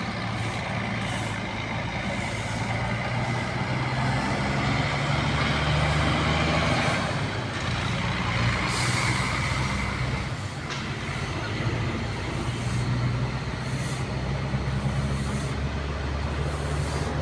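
Scania K360IB bus's diesel engine running, its pitch rising and falling. A sharp air hiss, typical of air brakes, comes about nine seconds in.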